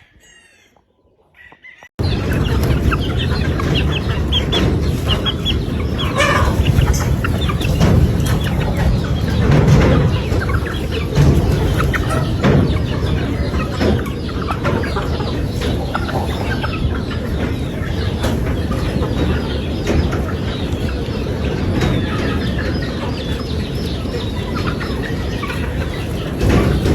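Gamefowl roosters and hens clucking, with a rooster crowing. About two seconds in, a loud, steady rumbling noise sets in beneath the birds and continues.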